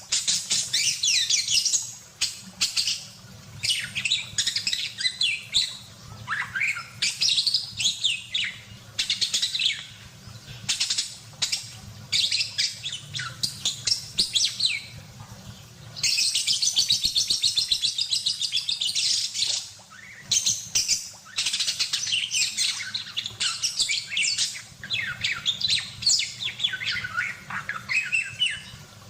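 Budgerigar (parkit) singing in a fast, almost continuous chatter of high chirps, squeaks and warbling glides, with a long unbroken run of rapid notes around the middle. A faint steady low hum sits underneath.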